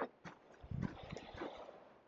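Faint, scattered clicks and handling noise as a headlight's wiring and connector are handled.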